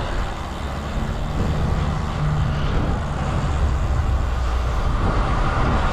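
Steady low rumble of wind and road noise on the camera microphone of a road bike being ridden.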